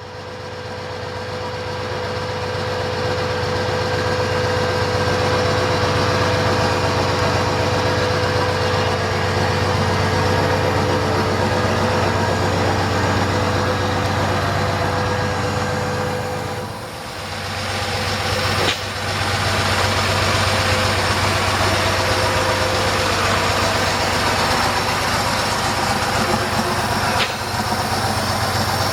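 A vehicle engine idling steadily, fading in over the first few seconds. Its level dips briefly about seventeen seconds in, and there are a couple of sharp clicks later.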